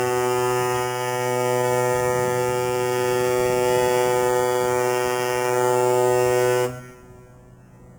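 Cruise liner's horn sounding one long, steady blast, really loud, that cuts off sharply about seven seconds in.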